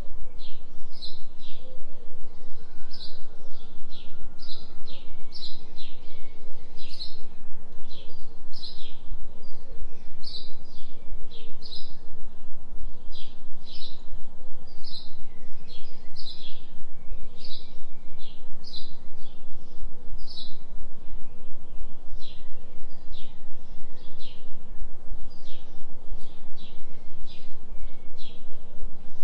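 Forest birds chirping over and over, short high calls about twice a second, over a steady low hum from a binaural-beat tone.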